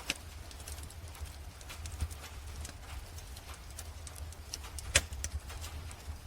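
Wood fire in a fireplace crackling, with sparse irregular pops, the loudest about five seconds in, over a steady low rumble.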